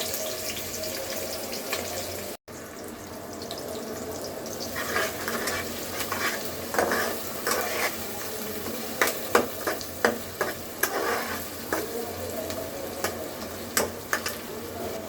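Food sizzling as it fries in oil in a cooking pot, with a spoon stirring and scraping against the pan in short, irregular strokes from about five seconds in.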